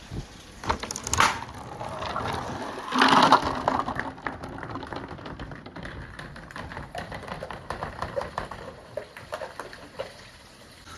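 Marbles rolling and clattering along a handmade marble run: a quick run of small clicks and knocks, with a louder clatter about three seconds in.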